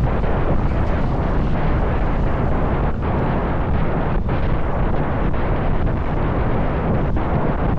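Wind rushing and buffeting over the microphone of a motorbike moving at speed, with road noise underneath; steady throughout.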